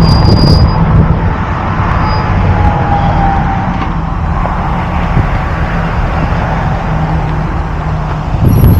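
Motor vehicle running steadily: a continuous low engine drone with road and traffic noise.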